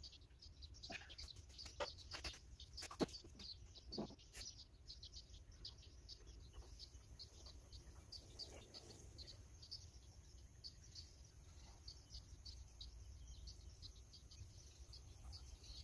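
Faint small-bird chirping, short high calls repeated about three times a second. A few soft knocks come in the first four seconds, the sharpest about three seconds in.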